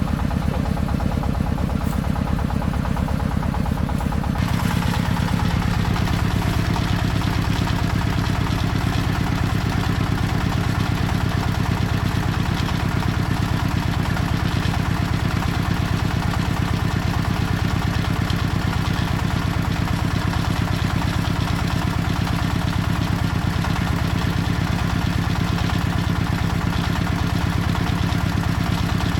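Single-cylinder diesel engine of a Vietnamese công nông farm vehicle, running steadily with a rapid, even pulsing. It grows louder and fuller about four seconds in, then holds steady.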